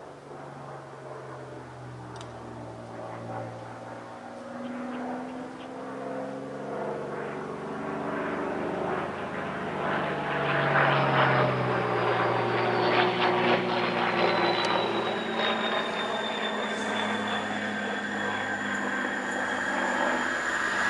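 Class 37 diesel-electric locomotive running light engine, its English Electric V12 diesel growling and growing steadily louder as it approaches. A high turbocharger whistle comes in about halfway and slowly falls in pitch.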